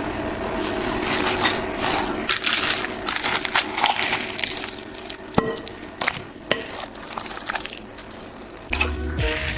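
Food being stirred in a hot pan, with sizzling and a few sharp clicks of a utensil against the pan.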